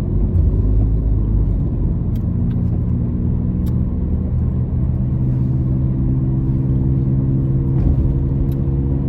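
Car engine and road noise heard from inside the cabin while driving: a steady low drone with a few faint clicks.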